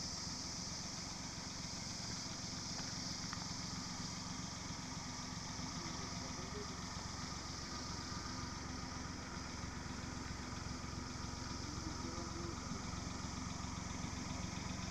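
An engine running steadily at idle, a low even drone, with a constant high hiss over it.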